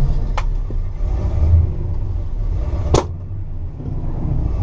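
Pontiac 389 V8 with Tri-Power carburettors running at low revs with a deep, steady rumble. A sharp click comes about three seconds in.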